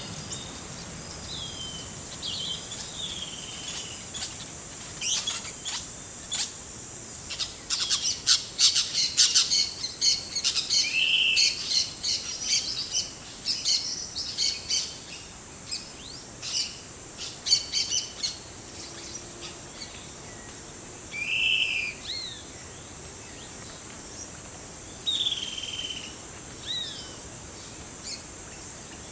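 Forest birds calling: short chirps and brief descending whistled notes, with a busy stretch of rapid sharp calls from about five to twelve seconds in. Under them runs a steady high insect drone.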